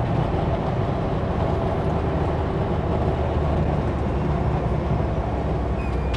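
Kenworth W900L semi truck running steadily down the highway: an even low engine and road drone.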